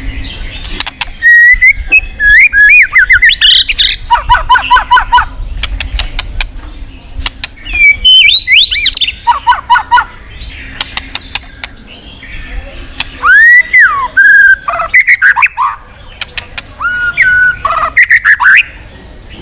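White-rumped shama singing loudly: whistled phrases that slur up and down, quick runs of repeated notes, and sharp clicking notes, in bursts with short pauses between them.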